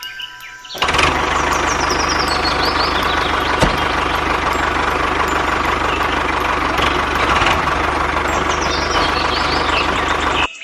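A motor running loudly and steadily with a low hum, switching on suddenly about a second in and cutting off abruptly just before the end.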